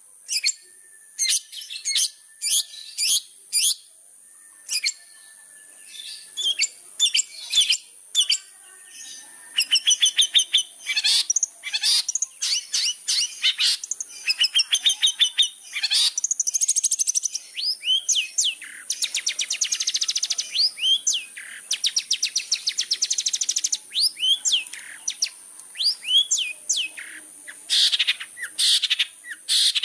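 Long-tailed shrike (cendet) singing a lively, varied chatter of sharp high notes, thickening about a third of the way in into fast buzzy trills and rattles.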